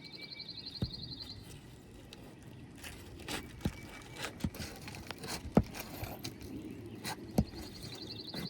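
Sealed asphalt roof shingles being pried and broken loose from their sealant strips: scattered sharp snaps and clicks, about half a dozen, over a low scraping rustle.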